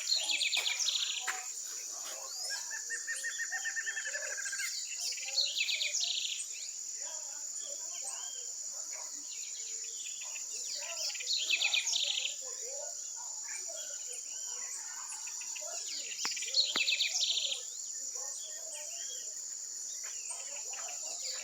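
Morning birdsong: a loud, rapid song phrase repeated four times at intervals of about five to six seconds, a lower steady trill lasting about two seconds near the start, and many smaller chirps from other birds, over a continuous high-pitched insect drone.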